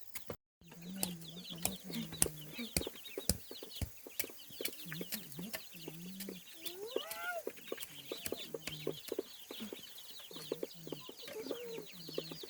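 A brood of ducklings peeping constantly in quick, high, falling chirps, over low clucking from fowl. Sharp clicks and knocks come now and then, and one rising call is heard a little past halfway.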